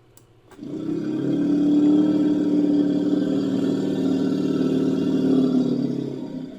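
Designed Columbian mammoth sound effect: one long, low call that starts about half a second in, holds for about six seconds and dies away at the end. A brief click comes just before it.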